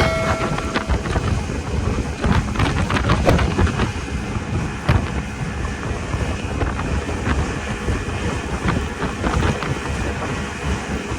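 Speedboat under way: a steady rush of engine, water and wind buffeting the microphone, with many irregular knocks.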